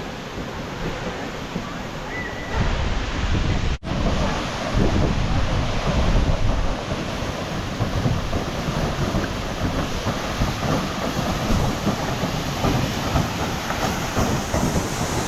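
A waterfall rushing in a steady roar of water noise. It gets louder about two and a half seconds in, with a brief break just before four seconds.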